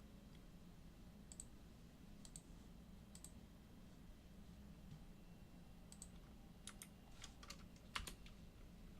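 Faint computer keyboard and mouse clicks over a steady low room hum: a few single clicks a second or so apart, then a quicker run of clicks near the end, the loudest of them right at the close.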